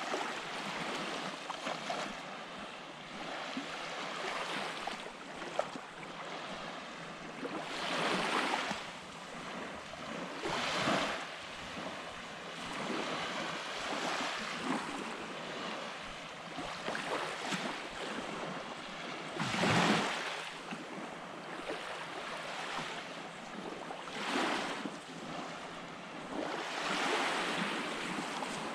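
Small waves breaking and washing up on a sand beach, with some wind on the microphone. A steady hiss of surf swells every few seconds as each wave comes in, the loudest about twenty seconds in.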